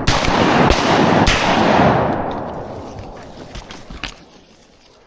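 Shotgun volley at ducks: three quick shots in the first second and a half, each trailing a long rolling echo that slowly dies away, then a fainter sharp crack about four seconds in.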